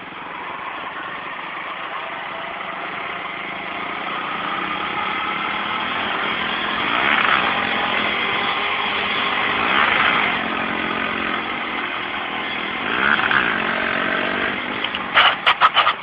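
Motorcycle engine running and revving, rising and falling in pitch a few times, with a quick run of sharp knocks or clatters near the end.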